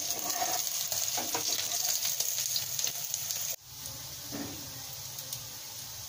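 Beetroot-and-chicken balls shallow-frying in hot oil in a pan, sizzling steadily with scattered small pops. A little over halfway through the sizzle breaks off for an instant and carries on more quietly.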